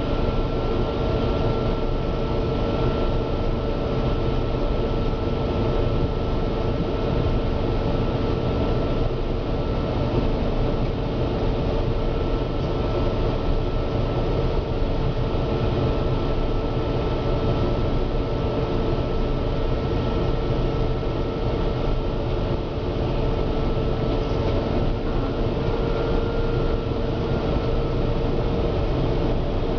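Gleaner N6 combine running steadily while harvesting wheat: a constant dense machine drone with a steady whine riding over it.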